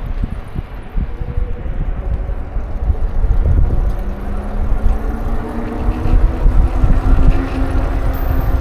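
Wind buffeting the microphone of a camera on a moving bicycle, a steady low rush throughout. From about halfway in, an engine's hum comes up and rises slightly in pitch as it nears.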